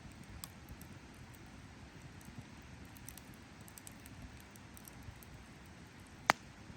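Wood campfire burning with faint scattered crackles over a low rumble, and one sharp, loud pop near the end.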